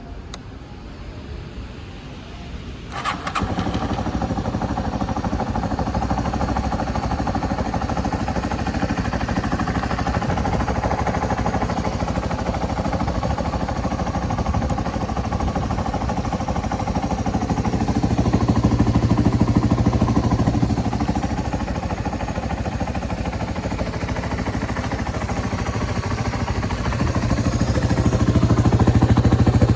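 Yamaha Serow 225W's air-cooled single-cylinder four-stroke engine starting about three seconds in with a click and catching at once, then running steadily at idle. The engine speed rises twice, briefly in the middle and again near the end.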